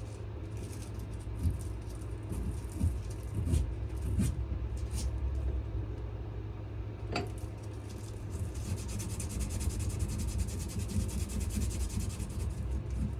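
Hand sanding of a wenge and maple knife handle clamped in a vise: a few scattered knocks and taps, then from about two-thirds of the way in a fast, steady scratchy rasp of abrasive on wood. A steady low hum runs underneath.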